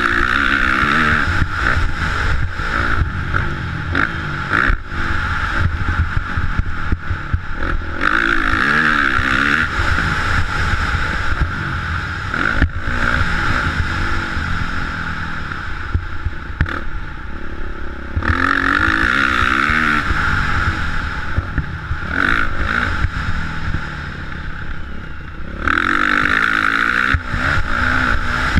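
Motocross bike engine revving up and down as it is ridden, with surges of high revs every several seconds between easings of the throttle.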